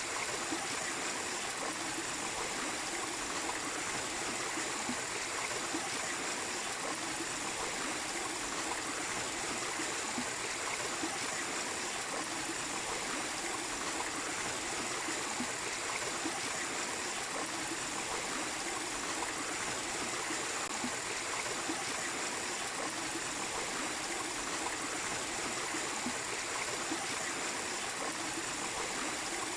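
Small waterfall with the water running and splashing steadily, with no pauses or changes.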